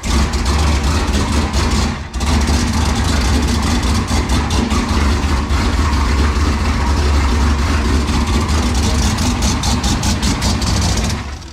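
GMC Sierra pickup's turbocharged engine running steadily at idle on its first start after a turbo kit install. There is a brief dip about two seconds in.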